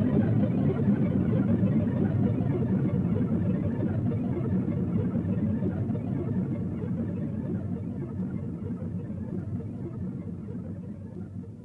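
Electronic music played on a Mixtur-Trautonium: a dense, low rumbling noise texture that gradually fades out over the last few seconds.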